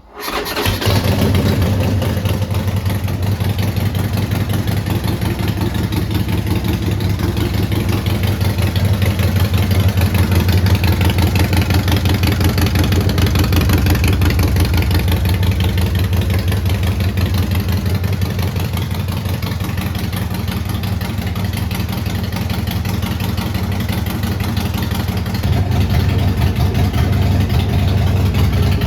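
2019 Harley-Davidson Sportster Roadster's 1200 cc air-cooled V-twin catching right at the start, then idling steadily with a low, even pulsing exhaust note. It gets slightly louder near the end.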